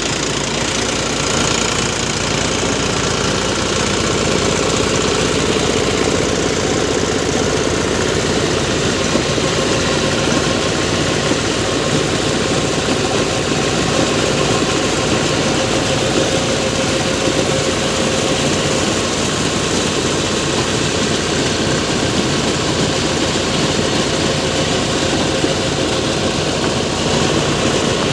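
Sonalika tractor's diesel engine running steadily, driving a borewell water pump through its PTO.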